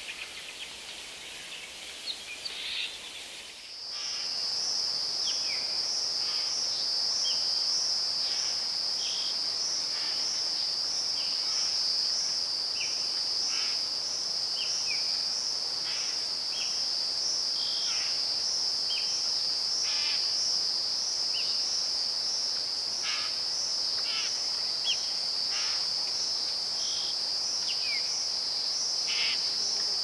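Rainforest ambience: birds calling for the first few seconds, then a steady, high-pitched insect trill with a slight pulse, with short bird chirps scattered through it.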